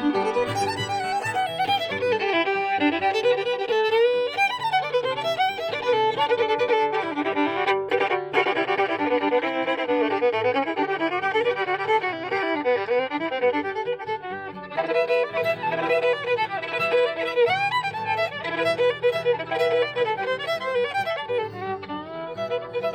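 A fiddle playing a bluegrass fiddle tune: a bowed melody of many quick notes.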